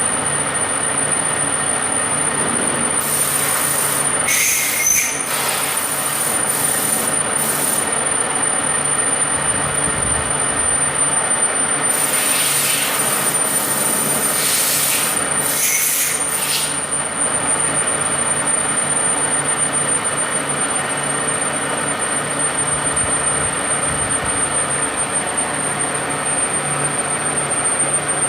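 Deckel CNC milling machine running steadily while cutting a cam, with a thin high whine throughout. Loud hissing comes in twice, for about five seconds each time.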